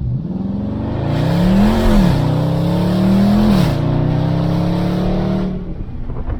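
2021 Dodge Charger Scat Pack's 6.4-litre HEMI V8 accelerating hard with its mid mufflers deleted and the stock resonators left on, heard with the windows down. The revs climb and drop sharply at two upshifts, about two and three and a half seconds in, then hold steady before the throttle eases near the end.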